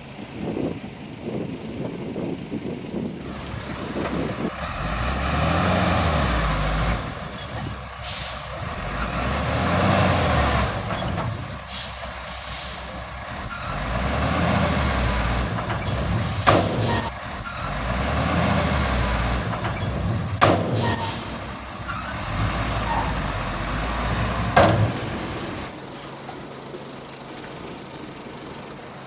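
Komatsu D31P crawler bulldozer's diesel engine revving up and easing off in repeated pushes about every four seconds, with sharp metal clanks and faint high squeals in between. Near the end the engine drops back to a quieter, steadier run.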